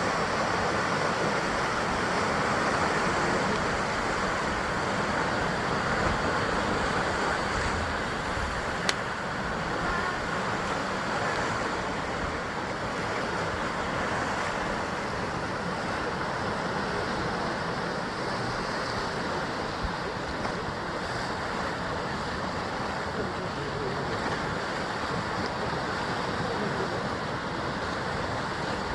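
Sea surf washing continuously against the rocky basalt shore, a steady rushing wash that eases slightly after the first several seconds. A single sharp click about nine seconds in.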